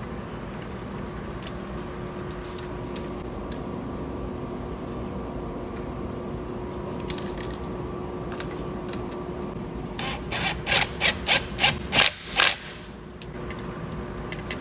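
Pneumatic (air) buffer blipped in about seven short, loud bursts in quick succession near the end, over a steady background hum with a faint tone.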